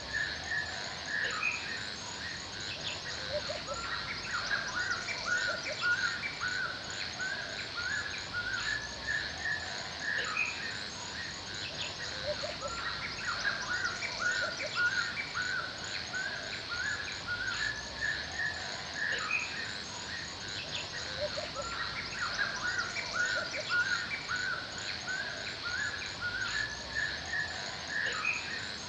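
Forest birds chirping and calling in quick repeated phrases throughout, over a steady high-pitched hiss with a fast, even, insect-like ticking.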